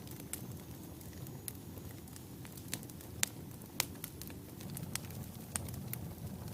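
Wood fire burning in a fireplace: a steady low rumble of flames with irregular sharp crackles and pops from the burning logs, the loudest pops a little past the three-second mark.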